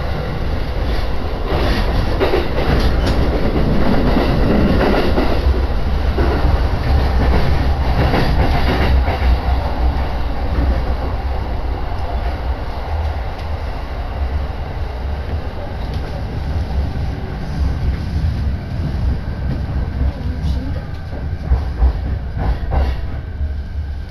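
Saikyō Line electric commuter train heard from inside the carriage, running with a steady low rumble and the clatter of wheels on rail joints. The noise eases in the second half as the train slows into Toda-Kōen station, with a few sharp knocks near the end.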